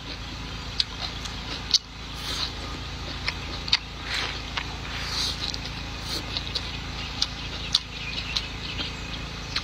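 Close-miked chewing and mouth smacking on a mouthful of rice, stir-fried pork, sausage and greens, with sharp clicks every second or so.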